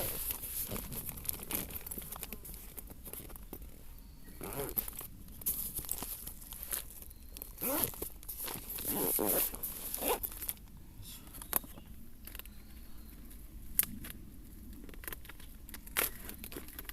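Plastic food packaging being handled and torn open, with crinkling, rustling and small clicks.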